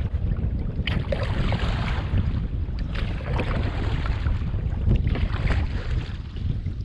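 Strong wind buffeting the microphone in a steady low rumble, with water splashing or sloshing in swishes every second or two.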